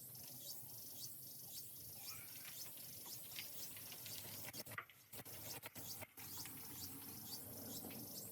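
Small birds chirping: many short, high calls, several a second, over a faint low hum, breaking off briefly a few times around the middle.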